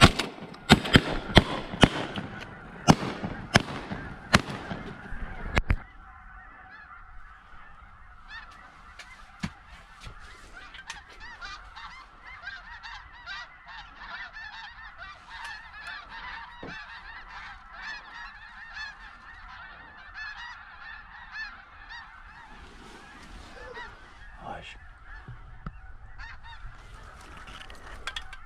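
Rapid volley of shotgun shots over a chorus of honking snow geese. The shots stop suddenly about six seconds in, leaving a large flock of snow geese calling steadily.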